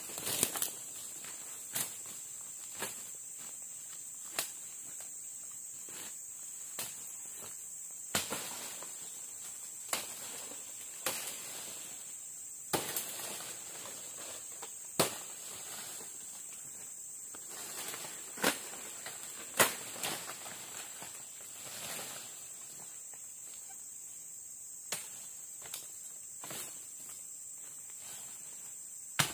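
Steady high-pitched insect chorus with irregular, close-by sharp clicks and snaps every second or few seconds.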